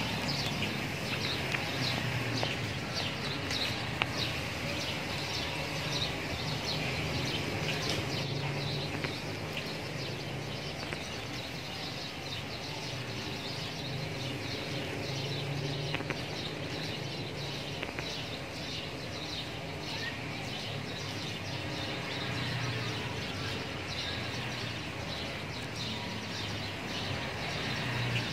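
Small birds chirping in quick, repeated bursts over a steady low background rumble of outdoor noise.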